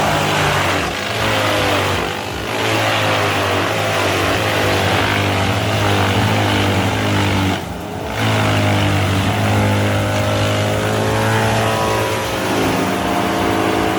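Bandit 21XP chipper's Cummins diesel engine running under heavy load while chipping dense eucalyptus logs, with loud grinding and chipping noise over the engine note. The engine pitch sags and recovers, and the loudness dips briefly three times.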